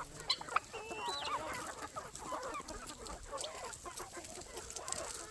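A flock of chickens clucking, with many short, overlapping calls and scattered scratching.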